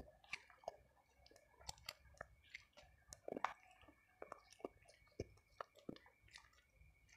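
Faint chewing with the mouth closed: scattered soft, wet mouth clicks and smacks, uneven in timing.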